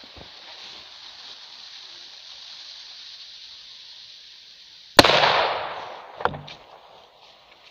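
A sudden loud bang about five seconds in that fades over about a second, followed a little over a second later by a second, shorter knock, heard over a steady hiss.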